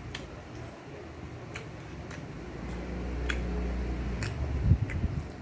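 Close-up eating sounds of someone chewing a mouthful of banana and rice: scattered wet mouth clicks and lip smacks. A low hum swells through the middle, and there is a single sharper knock near the end.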